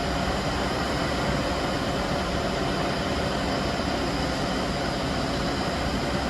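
Steady, unchanging drone of heavy diesel engines running, with a broad hiss of noise over it.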